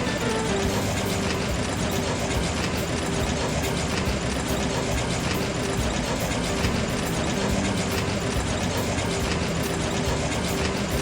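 Tractor engine running steadily, a constant heavy mechanical drone.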